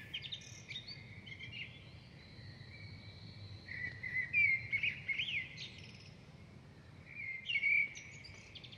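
Small birds chirping and singing in short phrases of quick rising and falling notes, over a faint steady low background rumble.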